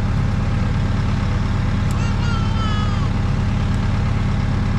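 Skid steer engine running steadily at a constant level, with a brief falling high-pitched tone about two seconds in.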